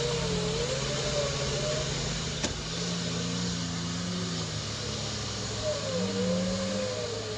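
Off-road vehicle engine running steadily, with a wavering whine that rises and falls. A single sharp click comes about two and a half seconds in.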